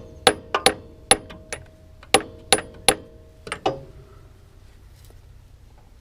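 Ball peen hammer tapping a metal-cased axle seal into its bore: about ten sharp, ringing metal strikes at an uneven pace over the first four seconds, then they stop. The seal is being driven in to sit flush.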